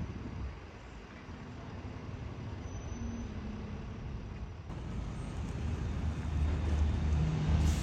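A bus engine running amid street traffic noise, a low drone that grows louder over the second half as the bus draws near.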